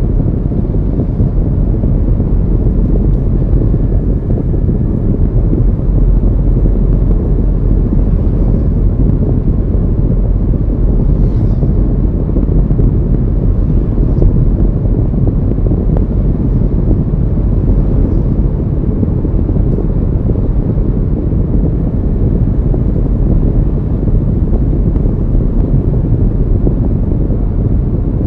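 Steady low rumble of a moving car, with wind buffeting the microphone.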